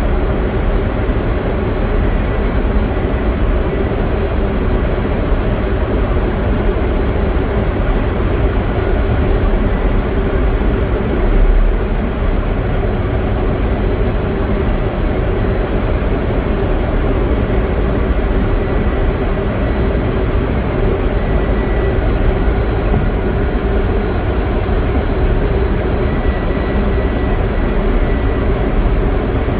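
Loud, steady drone of a running generator engine, with an even rumble and a few constant tones over it and a brief louder low thud about eleven seconds in.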